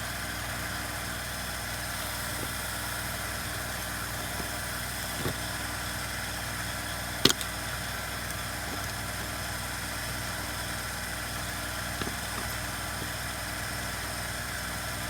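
Steady mechanical hum in the background, with a few light clicks and one sharp click about halfway through, from a screwdriver prying at a chainsaw's rubber handle mounts.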